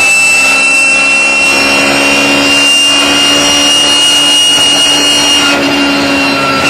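BMW E36 race car running with the loud, high whine of its straight-cut gearbox over the engine. The whine's pitch steps lower near the end.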